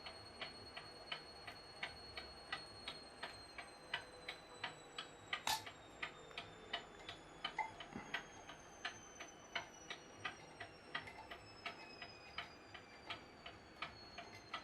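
Mechanical clock, rebuilt with many 3D printed parts, ticking steadily at about three ticks a second. One louder click comes about five and a half seconds in.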